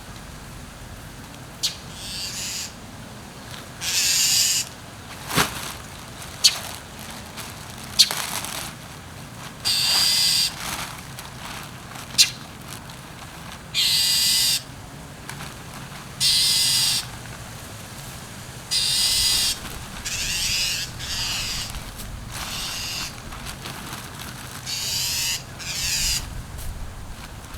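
Mulch being worked by hand in a garden bed: a run of short rustling scrapes, each under a second and repeated about every two seconds, with a few sharp clicks between them.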